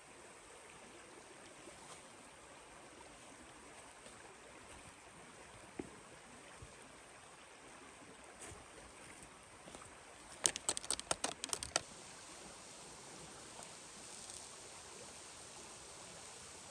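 Steady low hiss with a single knock, then a quick run of about ten sharp clicks or taps lasting just over a second, about ten seconds in.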